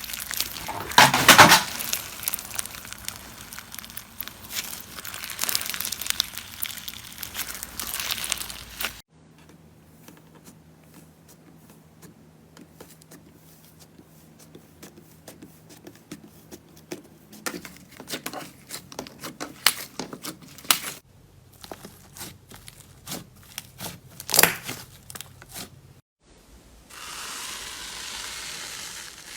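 Slime being squeezed and pressed by hand, making rapid crackling, popping clicks, dense at first, then sparser after a cut. Near the end it changes to a steady soft hiss.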